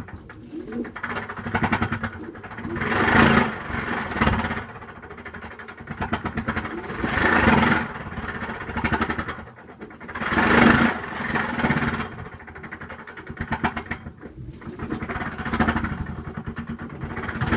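LG washing machine running at start-up with an abnormal rattling noise, a fast rattle and hum that swell and fade about every four seconds as the drum works.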